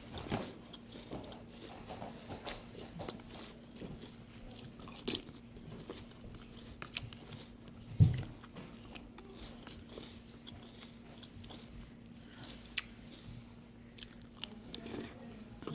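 A person chewing and crunching a mouthful of cereal close to the microphone, with scattered small crackles and clicks. One loud low thump about eight seconds in, over a faint steady hum.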